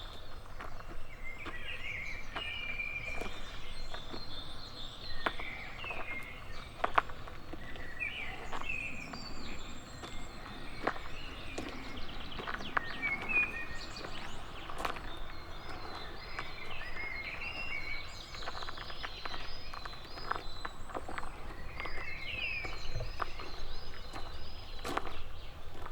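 Footsteps on a path, one steady click after another, under several birds singing and chirping throughout. Part way through, one bird repeats a short high note many times. A steady low background hum sits beneath.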